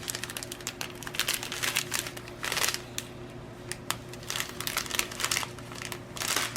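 Plastic packaging crinkling and rustling in irregular crackly bursts as it is handled and opened by hand.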